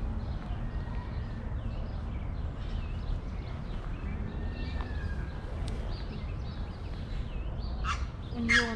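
Outdoor ambience: a steady low rumble with small birds chirping faintly throughout, then a loud, harsh bird squawk near the end.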